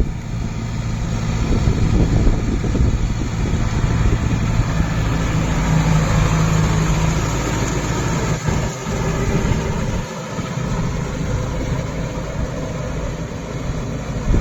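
Kubota MU 5502 4WD tractor's four-cylinder diesel engine running steadily at an even pitch while plowing a paddy field.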